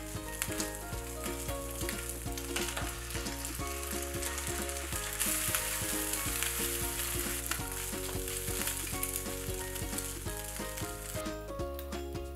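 Diced Spam and green onion sizzling in a hot frying pan, stirred and scraped with a silicone spatula. The sizzle grows louder about five seconds in, as an egg goes into the hot oil and is scrambled, and eases near the end.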